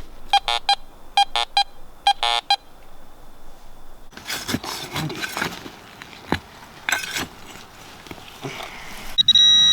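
Metal detector beeping in three short pulsing bursts, then scraping and rustling of digging in soil, and near the end a loud, steady high-pitched beep starts.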